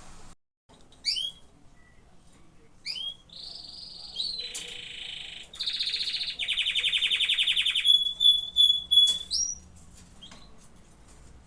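Domestic canary singing a varied song: short downward-sweeping notes, then clear whistled notes, a fast rattling trill about two seconds long, and a run of quick repeated high notes ending on a rising note.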